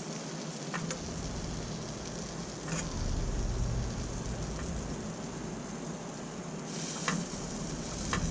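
Scallops and stingray pieces sizzling steadily in hot butter in a pan, with a few light clicks.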